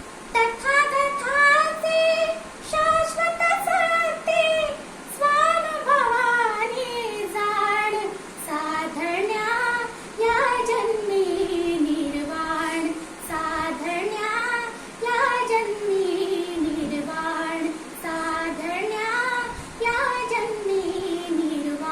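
A young girl singing a Marathi Buddhist devotional song solo: one high voice in long, sliding melodic phrases, with short breaths between them.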